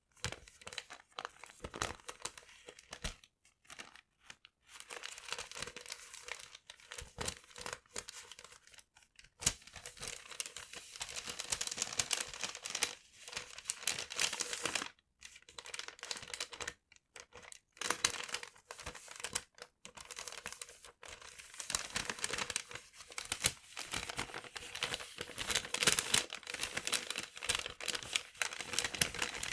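Paper being crumpled and crinkled close to the microphone, with some tearing: dense crackling in bursts broken by short pauses, busiest in the second half.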